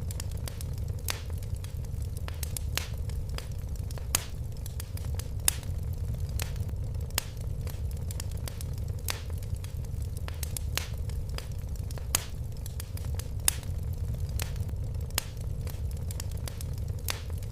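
Fire in a fireplace crackling, with irregular sharp pops and snaps several times a second over a steady low rumble.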